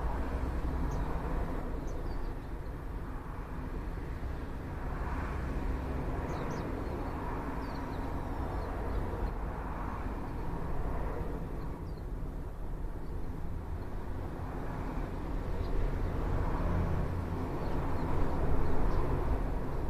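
Steady low outdoor rumble with faint, short, thin chirps from small songbirds, such as Japanese white-eyes and sparrows, scattered through it about a dozen times.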